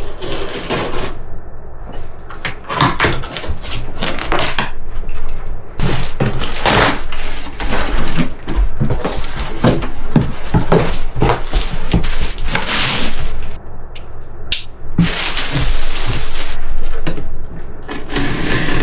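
Cardboard box and packaging being handled and torn open: irregular crackling, tearing and knocking. A steady noise begins near the end.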